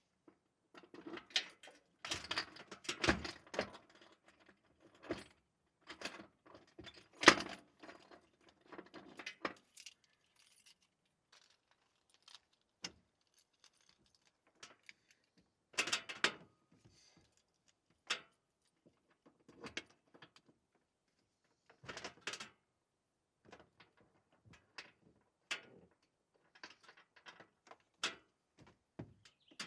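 Irregular clinking, rattling and knocking of small hard objects, in dense clusters during the first ten seconds, then in short separate bursts with quiet gaps between them.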